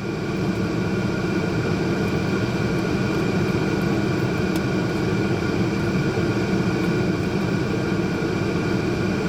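Steady engine drone with several held tones and even rushing noise, as heard from inside a moving vehicle.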